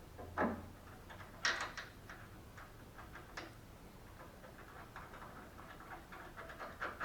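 Light clicks and knocks of hand tools and door-hinge hardware being handled during reassembly, a few separate strikes followed by a quick, even run of ticks over the last couple of seconds.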